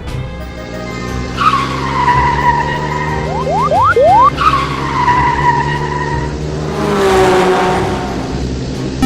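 Race-car sound effects: an engine running steadily, with tyres squealing twice, about a second and a half in and again about four and a half seconds in, and a quick run of four rising revs between the squeals, like fast gear changes.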